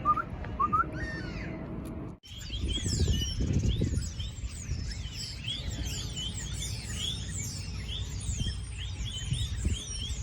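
Birds calling: a few short rising calls, then, after a brief sudden break about two seconds in, a flock's many quick, high chirps, with a low rumble underneath.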